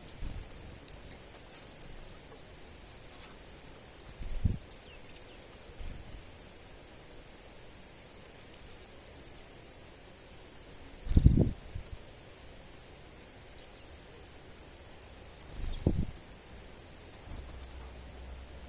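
Small birds calling in a rapid scatter of short, very high-pitched chirps, with a few brief low thumps in between, the loudest about two-thirds of the way through.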